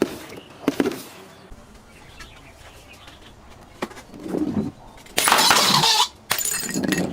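Objects being smashed and crushed: a few sharp knocks, then about five seconds in a loud crunching crash lasting most of a second, followed by a shorter crunch near the end.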